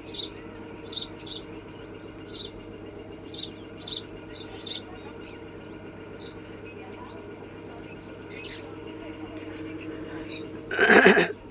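Small birds chirping: short, high chirps every half second to a second over a steady low hum. Near the end comes a louder, harsh noise lasting about half a second.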